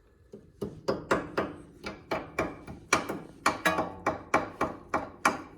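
Hammer tapping on metal: about twenty quick, sharp blows at roughly four a second, each ringing briefly, driving a part in.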